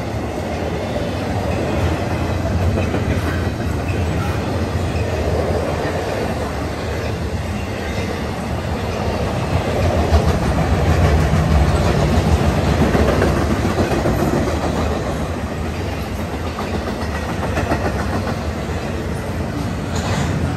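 Intermodal freight train cars rolling past close by: a steady low rumble and rattle of steel wheels on the rails, swelling a little about halfway through.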